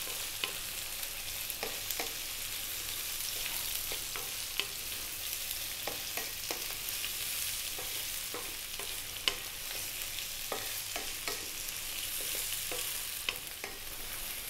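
Potato cubes, sliced onion and garlic sizzling steadily in olive oil in a wok, stirred with a wooden spatula that clicks and scrapes against the pan now and then.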